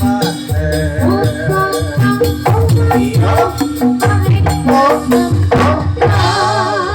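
Jathilan accompaniment music played loud through a sound system: a gamelan-style ensemble with rapid rattling percussion, steady held tones and a wavering melodic line over it.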